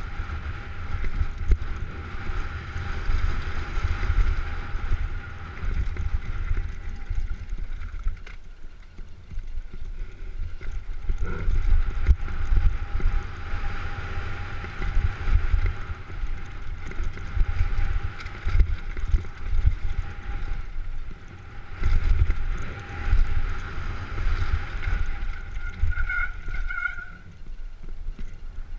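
Wind buffeting the microphone of a camera riding along on a downhill mountain bike run, a gusting rumble that rises and falls, with a faint steady thin whine above it and two short high notes near the end.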